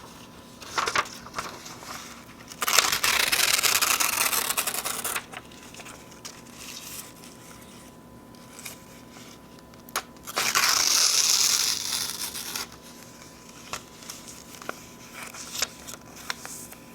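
Sheets of paper being torn slowly in two long rips, each about two and a half seconds, with light crinkling and handling of the paper between them.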